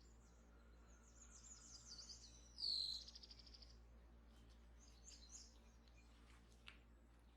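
Faint bird chirps and song: short high notes, a louder falling call near three seconds in followed by a quick trill, then scattered chirps, over a steady low hum. A single light click comes near the end.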